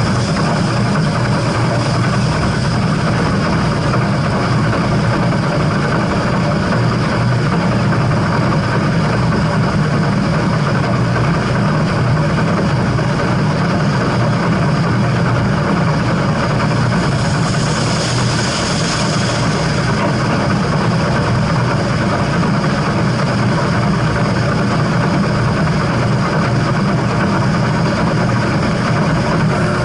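Steam train running: a steady, loud rumble of the train and its wheels on the track, with a brief rise in high-pitched hiss about eighteen seconds in.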